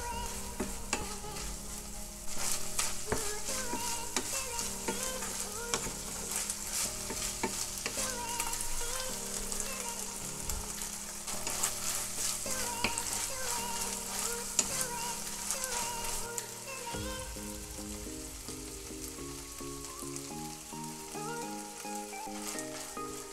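Minced chicken sizzling as it is stir-fried in a hot nonstick pan, with a wooden spatula scraping and tossing it. The sizzling is full and crackly for most of the stretch and eases off after about 17 seconds, as the basil leaves go in.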